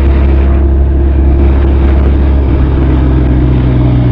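Benelli TRK 502's parallel-twin engine and exhaust running steadily while the motorcycle is ridden; the engine note changes about two-thirds of the way through.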